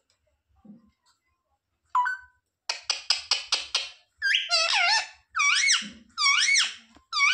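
Pet parrot calling: a short chirp, then a quick run of about seven harsh squawks, then a string of looping whistled calls that rise and fall in pitch, about two a second.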